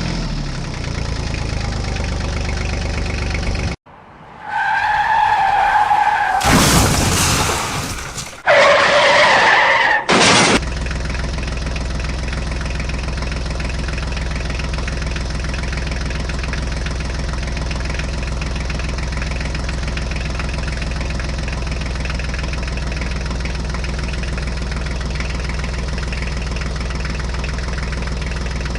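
Tractor engine running steadily. About four seconds in it cuts out, and for some six seconds there are loud pitched sounds and noisy bursts instead, after which the steady engine sound returns.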